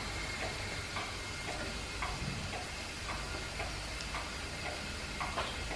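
Stationary steam engine running slowly while warming up to clear condensation, with a light regular click about twice a second over a low steady rumble.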